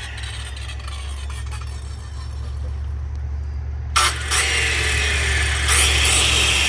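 Used electric power saw switched on about four seconds in, its motor starting suddenly and running with a high whine over a steady low hum.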